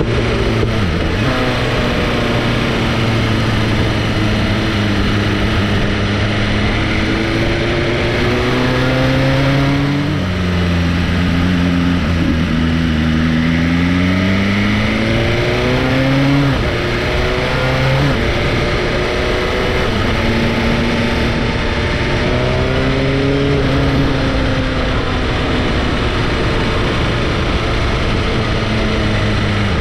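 Four-cylinder sportbike engine under way, its pitch climbing and falling with throttle and gear changes, with clear drops about a third and halfway through. A steady rush of wind and road noise runs underneath.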